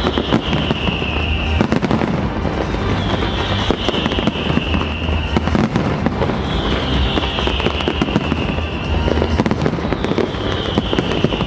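Big fireworks display: a dense, continuous crackling and banging of bursting shells. Over it, a high whistle falling in pitch comes four times, roughly every three to four seconds.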